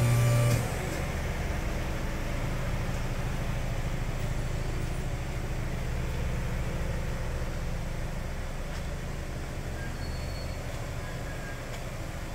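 Toyota RAV4 2.0 naturally aspirated four-cylinder engine with an aftermarket Thunder exhaust: the start-up flare drops off about half a second in and the engine settles into a steady, low idle through the exhaust.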